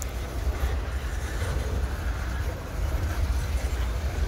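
Freight cars rolling slowly past during switching: a steady low rumble of wheels on the rails.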